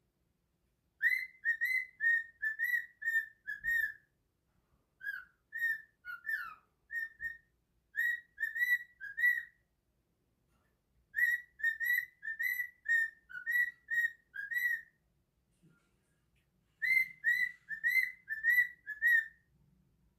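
Pet bird singing in short, repeated whistled notes, about three a second. The notes come in phrases of a few seconds, with pauses of a second or two between them.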